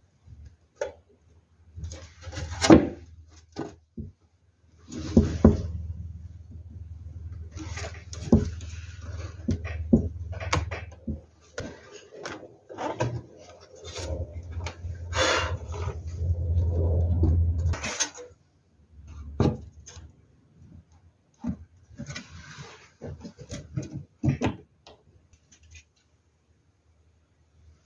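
Workshop handling noises: irregular knocks and clatters of wood and tools being set down and moved, with a low steady hum in the middle stretch that stops about two-thirds of the way in.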